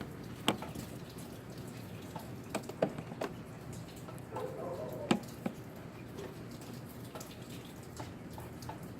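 Water dripping and splattering out of a window air conditioner after rain, in irregular sharp drops over a steady low hum.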